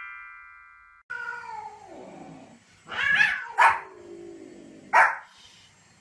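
A chime rings out and fades in the first second. Then a dog gives a long falling whine-like call, followed by sharp barks, three of them loud, with a shorter falling whine between them.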